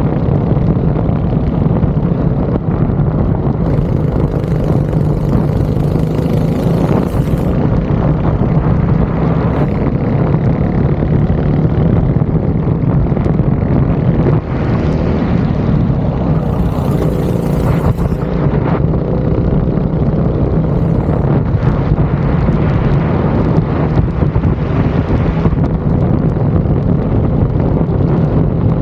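Go-kart engine running hard through a lap, its pitch wavering up and down with the throttle, under a steady rush of noise.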